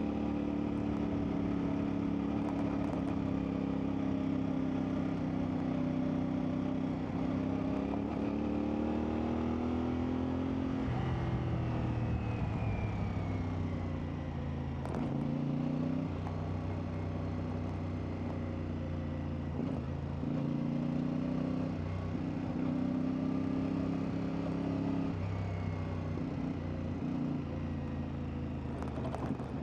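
CFMoto 450MT's parallel-twin engine running while the bike is ridden off-road. The note climbs about eight to eleven seconds in and then drops as the rider shifts up. After that it holds a fairly steady pitch, broken by several brief dips in the throttle.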